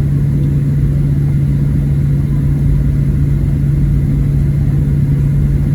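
Steady cabin noise of a Boeing 737-700 taxiing, its CFM56-7B engines at low thrust giving a constant low hum over a rough rumble.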